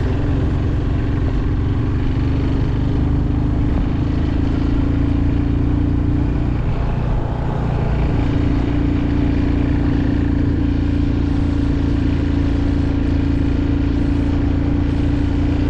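Motorcycle engine running steadily under way, with a dense low rumble of wind and road noise. About seven seconds in the engine note drops out briefly, as when the throttle is eased or a gear is changed, then comes back.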